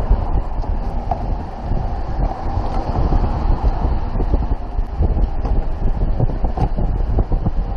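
Wind buffeting the microphone: a steady low rumble with many small clicks and knocks running through it.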